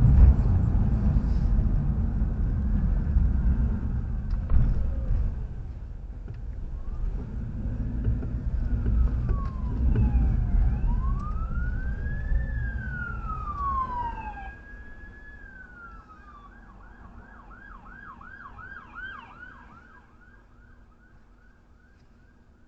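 Police car siren wailing in slow rising and falling sweeps, then switching to a fast yelp of about two to three cycles a second that fades away near the end. A heavy low rumble of traffic fills the first half.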